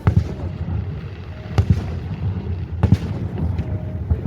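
Fireworks shells bursting in a series of sharp booms, several in quick pairs, about every second and a half, over a steady low rumble.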